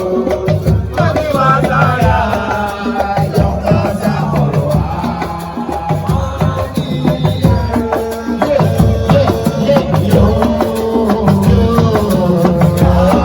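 Music: dense, fast hand-drum percussion with a singing voice over it.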